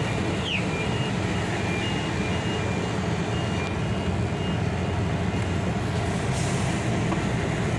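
MAN TGA truck's D2876 diesel engine running steadily, heard from inside the cab, with a repeating short high beep of the turn-signal indicator that stops about four seconds in.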